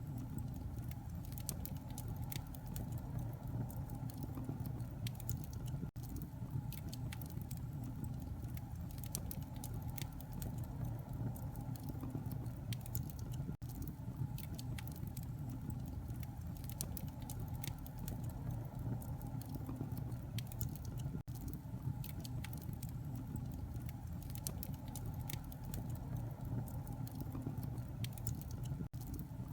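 Wood fire crackling in a fireplace: many sharp pops and snaps over a steady low rumble of flames, with a brief dropout about every seven and a half seconds.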